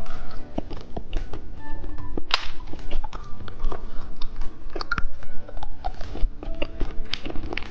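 Close-miked chewing and biting of a piece of candy, with many sharp clicks and crunches and one louder crack a little over two seconds in.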